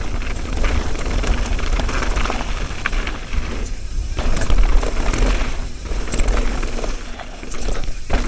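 Mountain bike descending a dry trail: a heavy rush of wind over the camera microphone with tyre noise on dirt, easing off briefly a few times.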